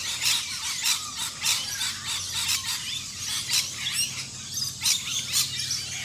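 Rainbow lorikeets screeching and chattering, many short shrill calls in quick succession.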